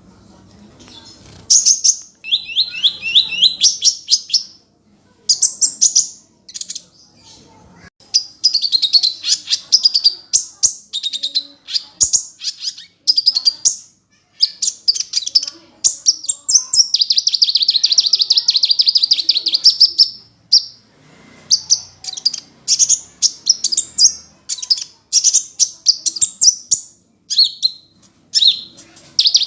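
Sunbird singing: phrase after phrase of rapid, high-pitched chirps and trills, with short pauses between the phrases.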